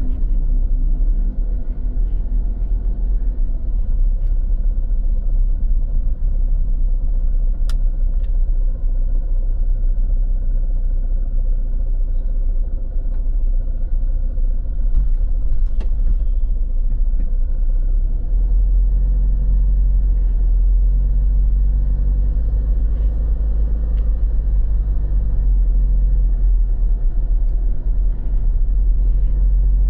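Steady low rumble of a motor vehicle running, which becomes louder and deeper about eighteen seconds in.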